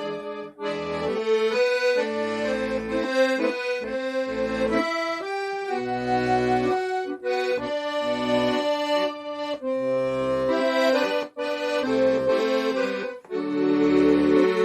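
Accordion playing a slow trot melody over bass notes, with short breaks between phrases about half a second in and twice in the last few seconds.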